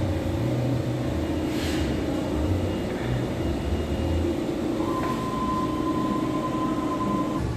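Steady hum and rumble of running industrial machinery, with a thin steady whine that comes in about five seconds in and stops near the end.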